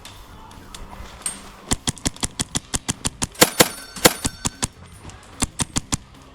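Airsoft guns firing rapid strings of shots, about seven a second. A long string starts about a second and a half in, with a few louder shots in the middle, and a short burst follows near the end.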